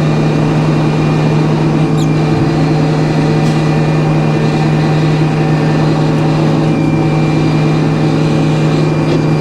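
Sawmill engine running steadily at an even, unchanging pitch.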